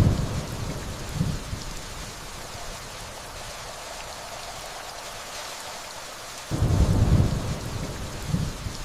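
Steady rainfall hissing, with two low rumbles of distant thunder: one already loud at the start and fading over the first couple of seconds, and another swelling up about six and a half seconds in.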